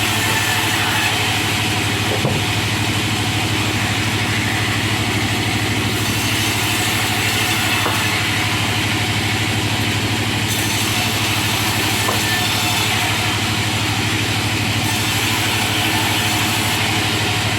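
Wood-cutting machine running steadily, a constant low hum with an even hiss of wood being cut into chips.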